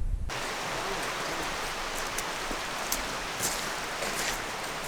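Steady hiss of running water, with a few faint clicks, coming in abruptly a moment in where a low rumble cuts off.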